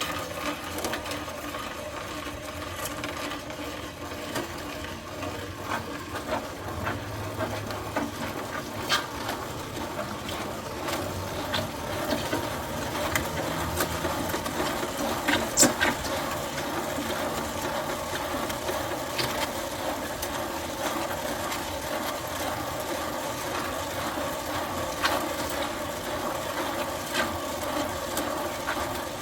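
Electric mixer running steadily while mixing a batch of concrete, with scattered sharp clicks throughout.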